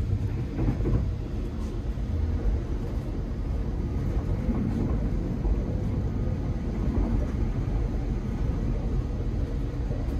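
Steady low rumble of a B5 passenger coach running along the track, heard from inside the train.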